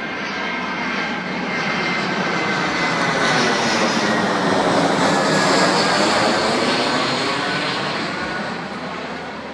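An airplane flying low overhead, growing louder to a peak about five or six seconds in and then fading, with a faint whine that drops in pitch as it passes.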